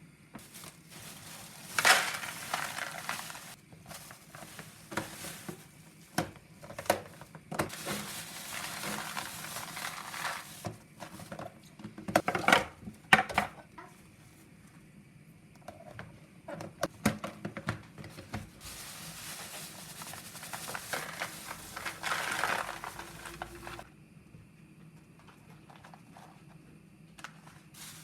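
Household handling sounds: scattered knocks and clatter, with stretches of rustling noise lasting a few seconds.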